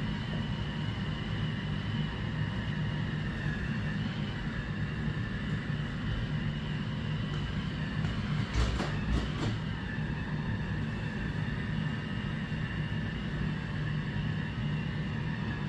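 Robot vacuum-mop running steadily across the floor, a continuous motor hum with a steady whine, with a few short clicks about eight and a half seconds in.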